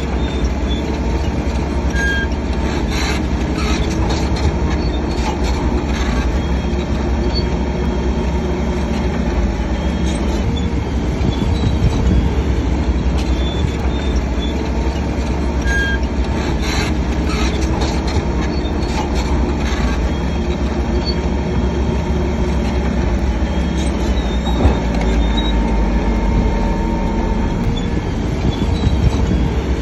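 Shantui DH7-C3 crawler bulldozer working, its diesel engine running steadily under load, with short metallic squeaks from the running gear now and then.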